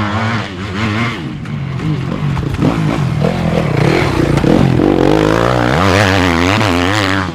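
Dirt bike engine revving up and down repeatedly under hard throttle, getting louder about three seconds in.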